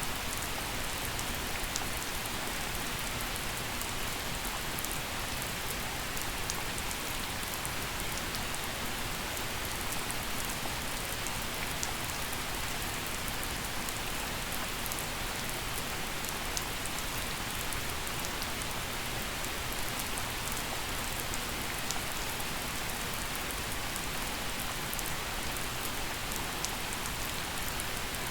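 Gentle steady rain falling, an even hiss with scattered sharp drips of single drops.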